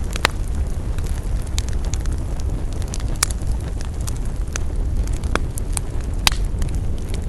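Wood campfire burning: a steady low rumble with scattered sharp crackles and pops, a handful of them louder, the loudest about a second before the end.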